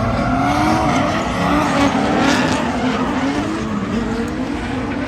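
Drift car engine revving hard, its pitch rising and falling, with tires squealing as the car slides, the squeal loudest about two seconds in.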